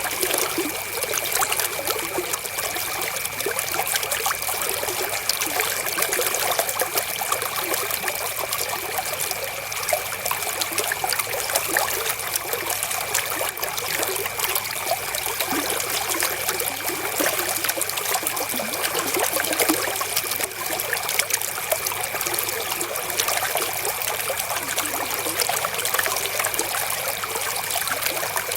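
River water flowing and trickling steadily, an even rushing splash with no letup. A thin, steady high tone runs faintly underneath.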